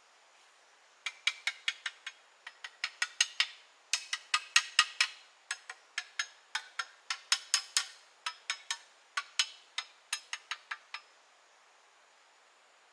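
A series of sharp knocks or taps, about four or five a second in short groups, starting about a second in and stopping near the end.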